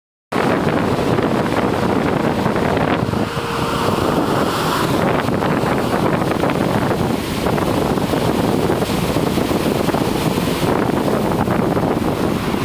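Strong wind buffeting the microphone over the steady running noise of a truck on the road in rain.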